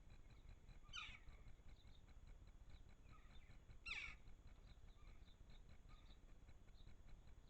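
Faint garden bird calls: two short, downward-sweeping calls about three seconds apart, the second the loudest, with soft high chirps in between.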